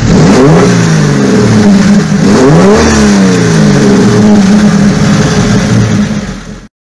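Modified Chevrolet Chevy SS engine revved in repeated blips, heard from inside the car, its pitch rising and falling several times. It fades and stops shortly before the end.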